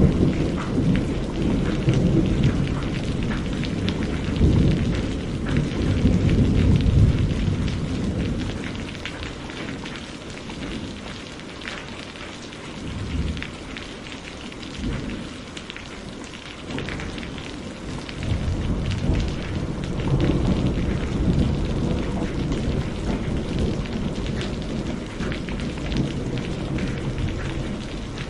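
Steady rain with rolling thunder. A long low rumble dies away over the first several seconds, and another builds about two-thirds of the way through.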